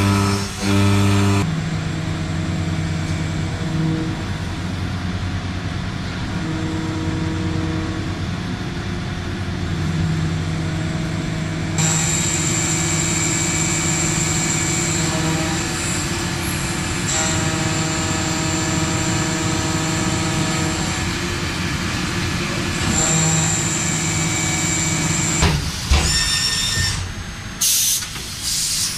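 Heavy industrial machinery running steadily, a low hum with several held whining tones. A high hiss of air or steam comes and goes through the middle, and a few sharp knocks come near the end.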